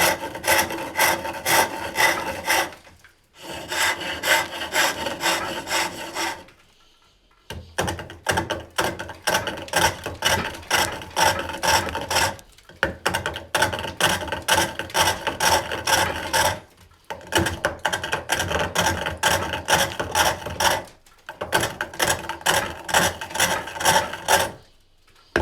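Hook tool cutting wood on a foot-powered pole lathe, with a rough scraping cut on each stroke of the treadle, about two strokes a second. The cutting comes in runs of a few seconds with brief pauses between them. These are aggressive, deep pivot cuts roughing out a handle.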